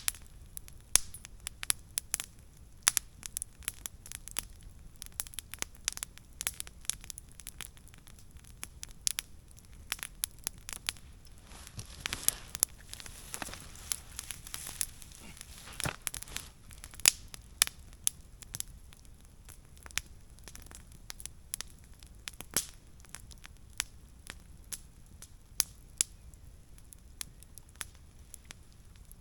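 Wood fire crackling, with irregular sharp pops all through, and a hissing rush that swells for a few seconds about twelve seconds in.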